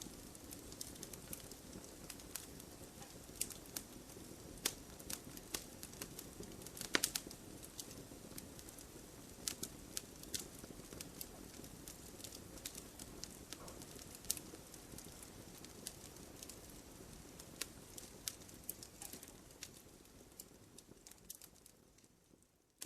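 Burning firewood crackling: irregular sharp pops and snaps over a low rushing of the flames. It fades out near the end.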